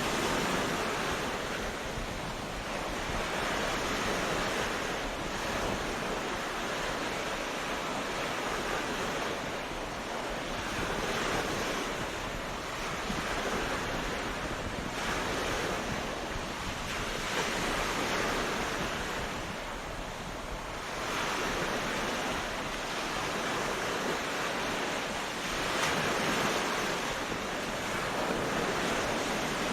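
Ocean waves breaking and washing onto a beach, a continuous surf that swells and eases every few seconds, with some wind noise.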